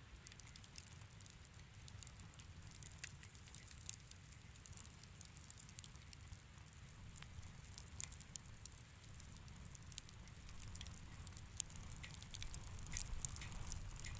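Fire in a fireplace crackling softly: scattered small pops and snaps over a low steady rumble, with the pops coming thicker near the end.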